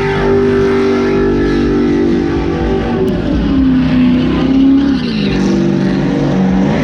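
Edelbrock-supercharged Nissan 370Z drift car's engine held at high revs during a drift, the pitch dipping and climbing back about halfway through and again near the end.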